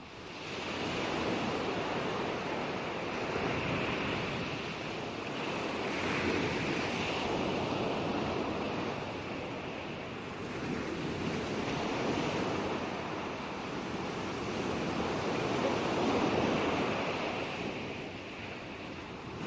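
Ocean surf: waves breaking and washing up a shore, the rush of noise rising and falling every few seconds.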